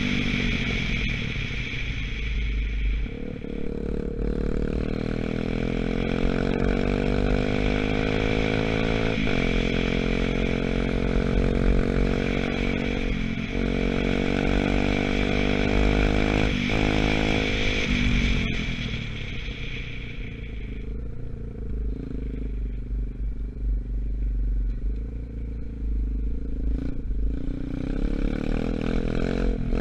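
125cc dirt bike engine running under way, its pitch climbing and then dropping sharply several times as it accelerates and changes gear, then settling lower and steadier near the end.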